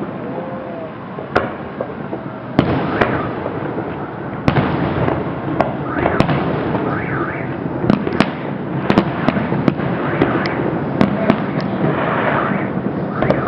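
Fireworks display: sharp bangs of bursting shells at irregular intervals, several in quick succession at times, over a continuous rumbling crackle.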